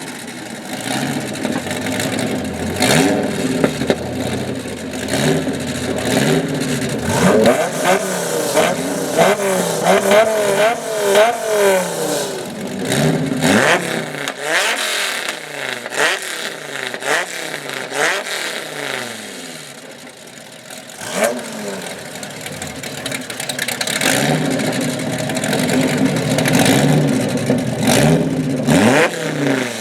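Dodge Viper 8.0-litre V10 being revved hard, over and over: a stretch held at high revs with the pitch wavering, then a run of quick throttle blips about once a second, with sharp cracks from the exhaust.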